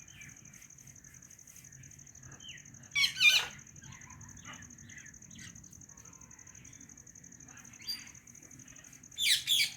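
White Indian ringneck parakeet chirping and chattering softly in short repeated notes, with a loud sharp call about three seconds in and another near the end. A steady high-pitched whine runs underneath.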